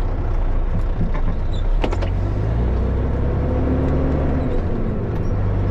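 Dump truck engine running steadily, heard from inside the cab while driving. Its note shifts up for a couple of seconds partway through and then settles back, with a few light clicks about two seconds in.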